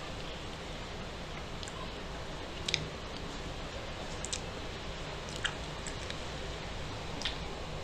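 Close-miked chewing of a mouthful of food with the mouth closed, with a few short, sharp wet clicks, over a steady background hiss.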